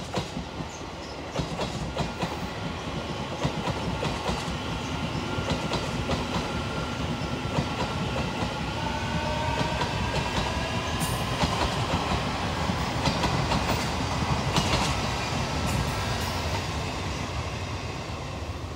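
Electric multiple-unit commuter train passing close by, its wheels clacking over the rail joints, with a faint whine that rises slowly in pitch through the middle. The sound builds to its loudest past the halfway point and eases near the end.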